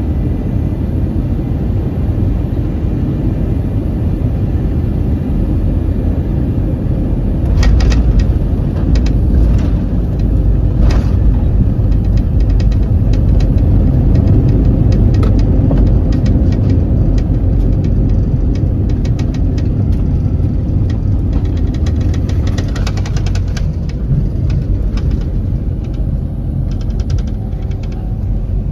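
Cabin sound of an Airbus A321-231 landing and rolling out, heard from a seat near the front. A steady low rumble jumps in level about seven seconds in, with jolts and rattles of the cabin as the wheels touch down and roll along the runway. The rumble builds, then eases toward the end as the aircraft slows.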